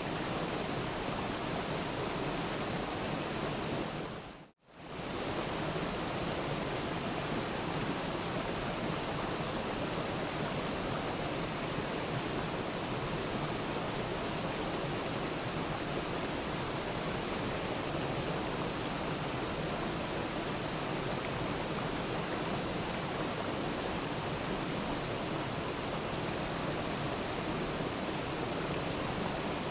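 Waterfall: steady rushing of falling water, even and unchanging, with one brief fade to near silence about four and a half seconds in before it returns at full level.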